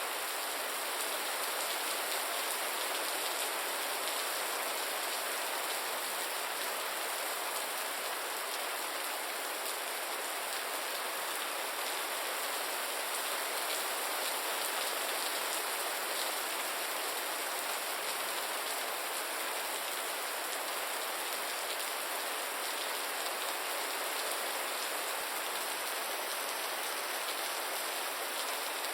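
Steady gentle rain falling, an even hiss with little low rumble.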